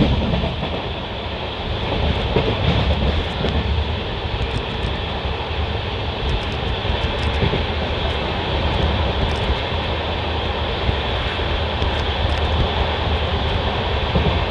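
Passenger train coach running along the track: a steady rumble of wheels on rails.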